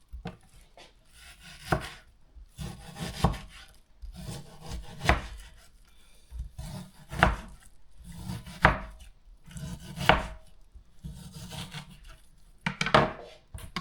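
Knife cutting raw chicken into pieces on a cutting board: each slicing stroke ends in a knock on the board, about every one and a half to two seconds.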